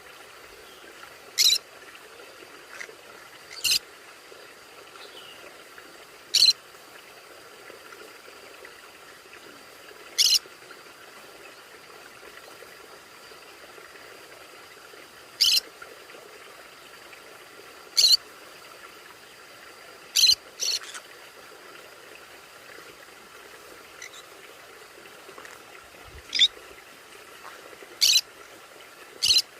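Pet conure parrots giving short, sharp, high-pitched call notes, about eleven single calls spaced irregularly a few seconds apart, two of them close together around the two-thirds mark, over a steady faint background hum.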